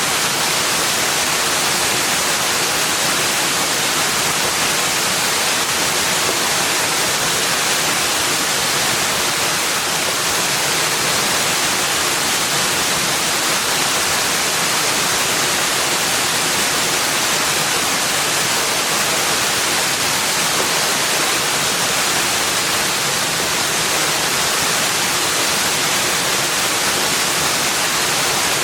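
Steady rushing water, an even hiss with no change in level and no other sounds standing out.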